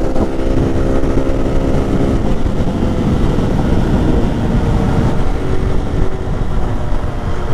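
Lifan KP motorcycle engine running at a steady cruising speed, with wind noise on the microphone. About two seconds in the wind rumble swells and largely drowns the engine's note.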